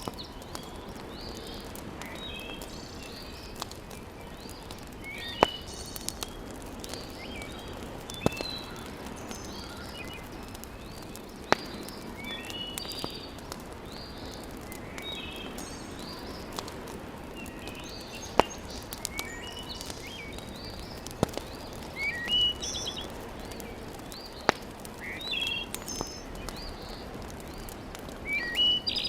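Fireplace fire crackling steadily, with a sharp pop every few seconds. Birds chirp and call throughout.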